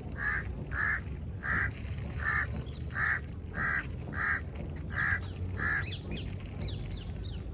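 A bird giving a series of nine short, evenly spaced calls, about one and a half per second, that stop about six seconds in; a few faint high falling chirps from a small bird follow near the end.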